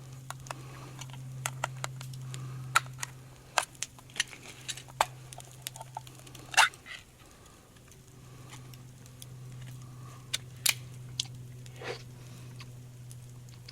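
Irregular sharp clicks and small taps, the loudest about six and a half seconds in, over a steady low hum.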